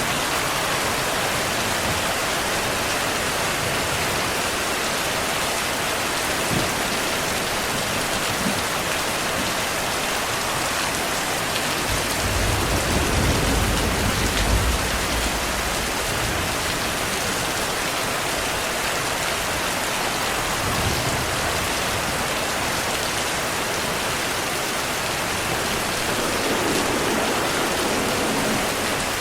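Steady rain falling, an even hiss of drops on a surface. About halfway through comes a low rumble of distant thunder lasting a few seconds.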